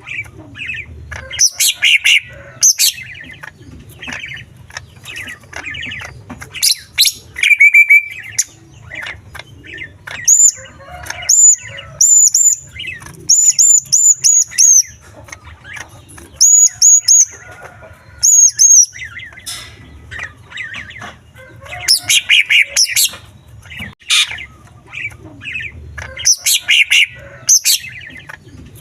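Green leafbird (cucak ijo) singing a long, varied song packed with mimicked small-bird phrases. Bursts of rapid chattering notes come first and last, and in the middle a run of high, sharply rising whistled notes.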